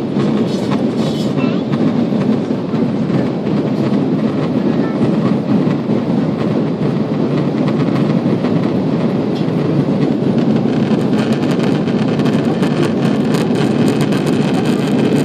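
Steady roar of an Airbus A340-600's four Rolls-Royce Trent 500 engines and the airflow over the fuselage, heard inside the cabin in flight as an even, low rumble.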